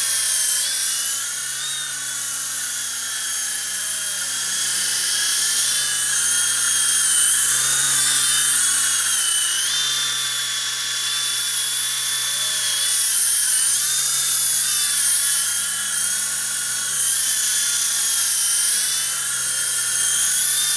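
BladeRunner Triumph small electric RC helicopter in flight: a high-pitched motor and rotor whine that keeps rising and falling in pitch as the throttle changes.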